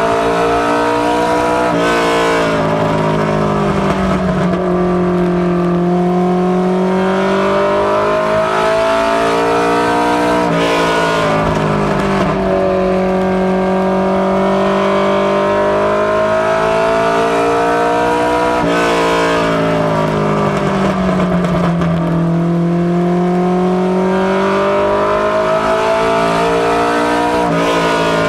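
Ford Mustang notchback ministock race car's engine running at speed on a short oval. Its revs climb and drop in a repeating cycle about every eight seconds, lap after lap.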